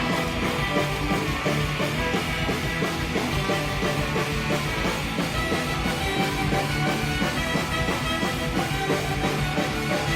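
Live rock band playing an instrumental passage, with electric guitars, bass and drums keeping a steady driving beat.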